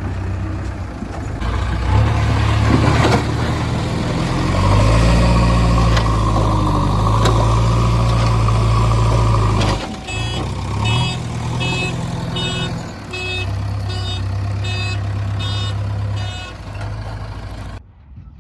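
Backhoe loader's diesel engine running and revving up and down under load, with a steady whine in the middle, then a reversing alarm beeping about one and a half times a second for several seconds; all sound cuts off suddenly near the end.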